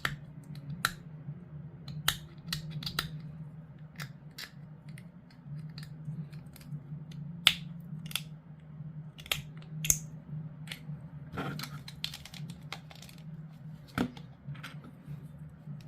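Hard plastic model-kit parts being handled and pushed together: scattered sharp clicks and taps at irregular intervals, over a steady low hum.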